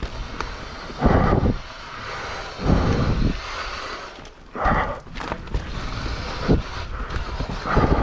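Mountain biker breathing hard on a tiring ride, with four heavy exhalations about every one and a half to two seconds over a steady rushing noise.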